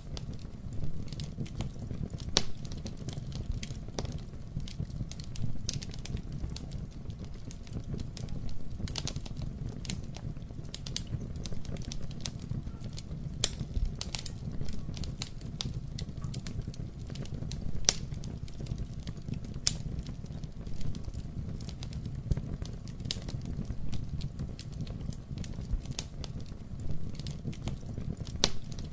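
Campfire burning, with a steady low rumble of the flames and frequent irregular crackles and sharp pops from the burning wood.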